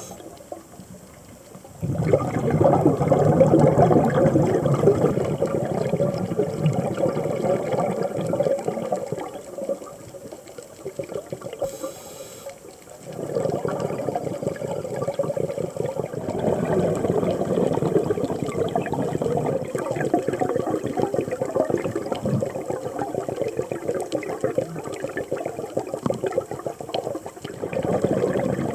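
Scuba diver's regulator exhaust bubbles heard underwater: a long bubbling rush of exhaled air starting about two seconds in, a short lull, then more long stretches of bubbling.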